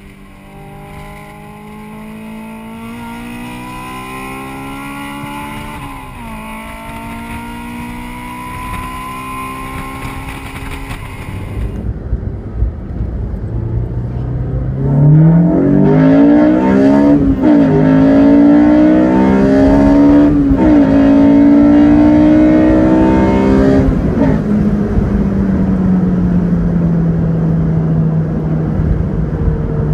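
Honda S2000's four-cylinder engine heard from inside the cabin, revving up through the gears: the note climbs, drops at one upshift and climbs again. Then a Honda S2000 with an HKS RSK intake fitted accelerates hard, climbing through two upshifts, before the driver lifts off and the engine note falls steadily as the car slows.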